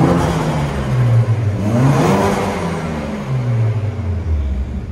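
Turbocharged engine of a BMW Z4 revved twice while standing still: the revs drop from one blip, climb sharply again about a second and a half in, then sink slowly back toward idle.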